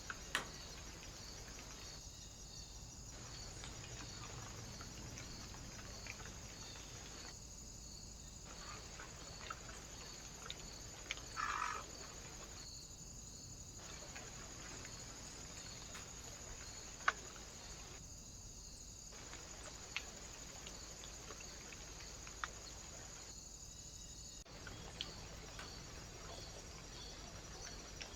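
Trail camera's own low-level recording noise: steady hiss with a faint high whine and an even train of faint ticks, broken by a few short gaps and a handful of sharp clicks.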